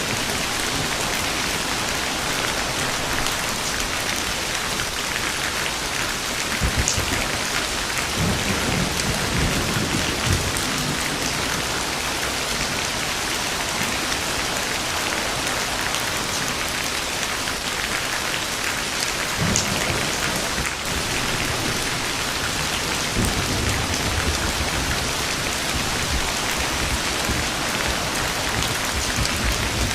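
Steady, heavy rain falling, with low rumbles of thunder rolling in several times: about a quarter of the way in, again around two-thirds through, and on through the last quarter.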